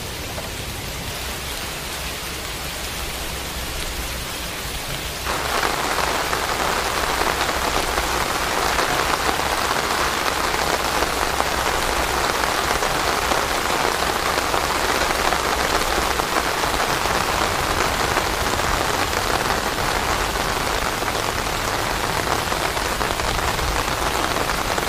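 Steady rain falling. About five seconds in, it changes abruptly to a louder, denser downpour.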